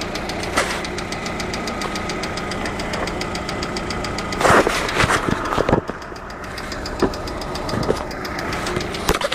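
Car engine idling with a rapid, even ticking, which the owner takes for valve knock at 22,600 km. A few louder, irregular knocks come in around the middle and again near the end.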